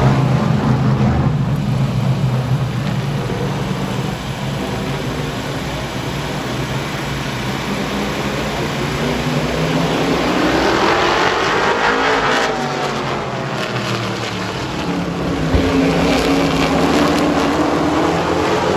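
Super truck race trucks running at speed around an oval short track, engines droning continuously. A truck passes close about eleven to thirteen seconds in, its engine note rising and then dropping as it goes by, with another pass near the end.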